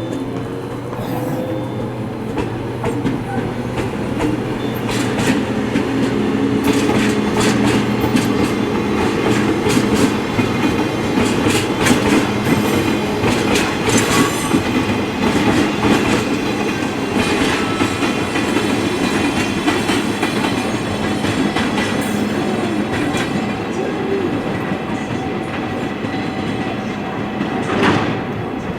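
Freight train rolling through the station: a steady hum under repeated clicks and clacks of wheels over rail joints, loudest in the middle and easing toward the end.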